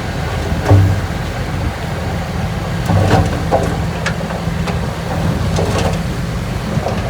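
Heavy diesel engine of an earthmoving machine running steadily with a low rumble. Short metallic clanks and squeals break in several times, the loudest about a second in and a cluster around the middle.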